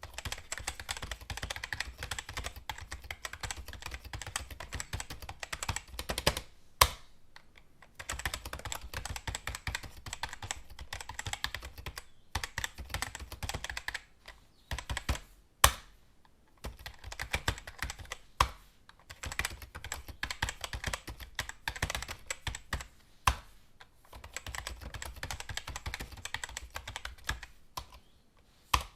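Computer keyboard typing: fast runs of key clicks broken by short pauses, with a few single louder key strikes standing alone in the pauses.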